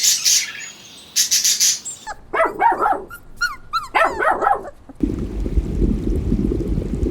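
Small dog yapping in two quick runs of short, high barks.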